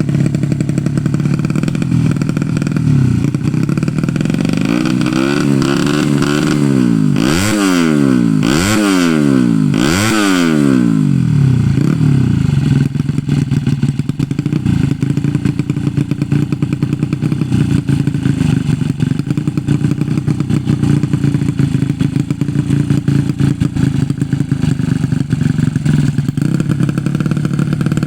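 Tuned 115 cc underbone race motorcycle engine idling, then blipped several times in quick succession in the middle, the three sharpest revs close together, before settling back to a steady idle.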